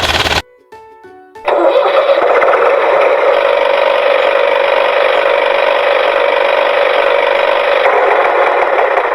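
A toy vehicle's electronic sound effect: a short tune of stepped beeps, then a steady electronic engine-running drone from about a second and a half in.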